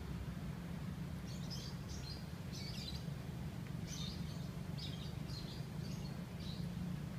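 Small birds chirping in short, high bursts, one about every second, over a steady low hum of background noise.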